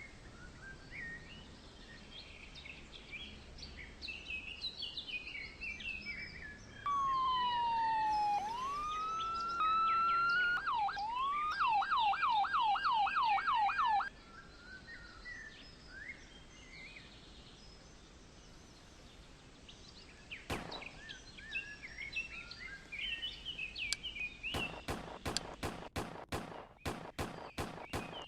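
Emergency vehicle siren: a wail that sweeps down and back up, then switches to a fast yelp for a few seconds before cutting off, with birds chirping throughout. Near the end there is a quick run of sharp clicks, about three or four a second.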